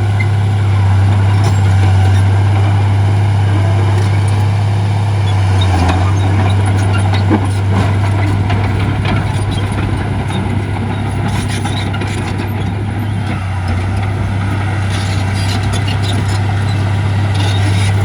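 Heavy diesel earthmoving machinery running steadily: a loud, low engine drone with scattered clanks and rattles, and a sharp knock about seven seconds in.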